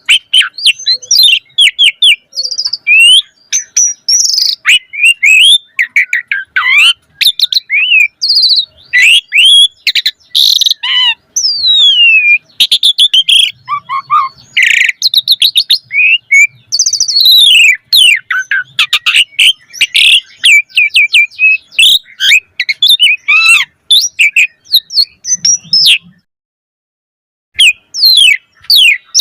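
Asian pied starling singing vigorously, a long run of varied whistles, gliding notes, chattering clicks and rasping phrases that breaks off for about a second and a half near the end.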